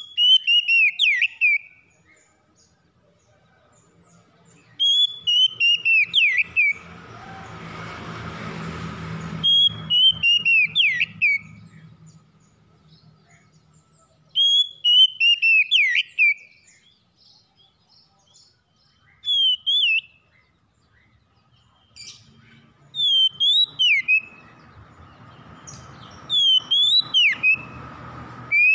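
Oriental magpie-robin (kacer) singing: loud, clear whistled phrases that slide down from a high note into quick twisting notes, repeated about every four to five seconds. Twice a rushing noise rises behind the song and then fades.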